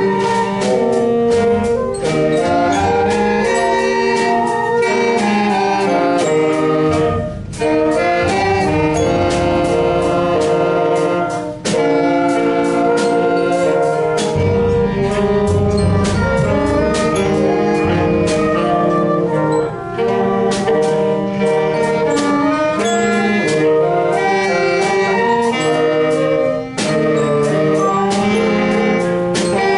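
Student brass and wind band playing a tune together, with trumpets, trombones and saxophones in held chords and a moving melody, pausing briefly between phrases.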